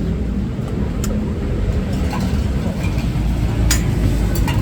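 Steady low rumble of road traffic, with a few sharp clicks: one about a second in and two near the end.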